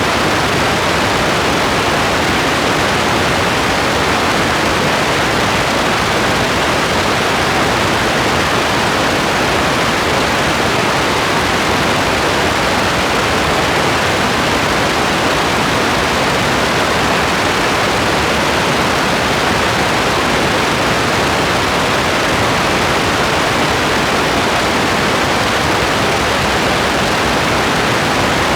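Steady heavy rain: an even, unbroken hiss with no distinct drops or thunder.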